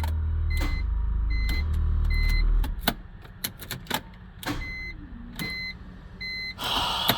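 BMW E46 M3 with a rebuilt S54 engine: a steady low drone that cuts off about two and a half seconds in, followed by scattered clicks and a short electronic chime repeating about once a second. The owner says the engine locked up.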